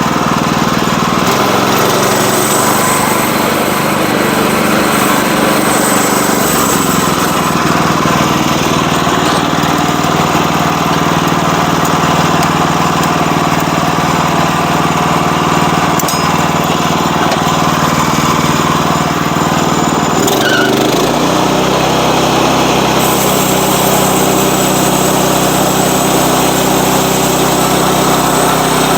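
Sawmill's small engine running steadily, most likely with the saw working through a log; about two-thirds of the way through, its note changes suddenly and then holds.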